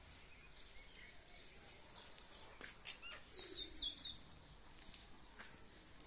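Small birds chirping faintly: scattered single chirps, then a quick run of high chirps a little past the middle.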